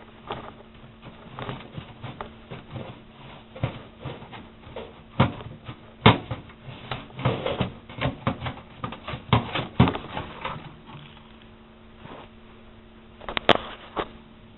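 Irregular scraping, clicking and knocking as the clogged air inlet at the base of a homemade tin-can sawdust stove is cleaned out. The inlet was blocked by fallen-in material and perlite. The noises go quiet for a couple of seconds, then two sharp knocks come near the end.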